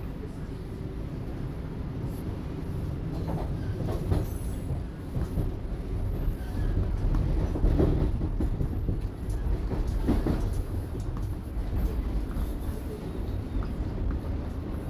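Toronto subway Line 1 train running between stations, heard from inside the car: a steady low rumble with clattering wheels and a few sharper knocks from the track, notably about four, eight and ten seconds in.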